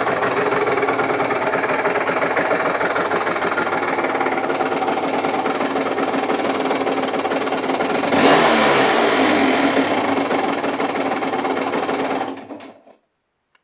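Aprilia RS 125's two-stroke single-cylinder engine through a Giannelli exhaust, idling with a rattly beat. About eight seconds in it is blipped, louder, and the revs fall back, then near the end the engine is switched off and dies away.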